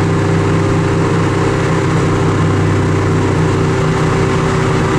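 Vehicle engine running at a steady, unchanging pitch, a constant drone with no revving.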